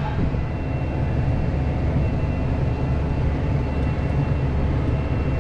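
Loader tractor engine running steadily at low speed, heard from inside the cab.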